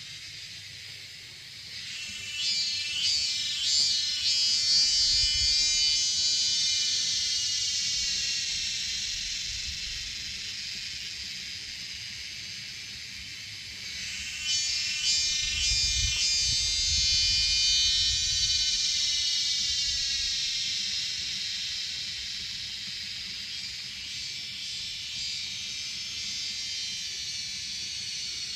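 Cicadas calling in two long bouts, one about two seconds in and one about halfway through. Each opens with a few quick pulses and settles into a steady high buzz that swells and then slowly fades. Low rumbles of wind on the microphone come now and then.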